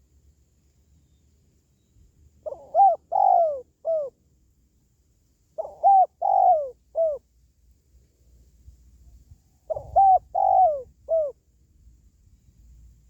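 Spotted dove (tekukur) cooing: three calls a few seconds apart, each a short phrase of about four notes in which the third note is drawn out and falls in pitch.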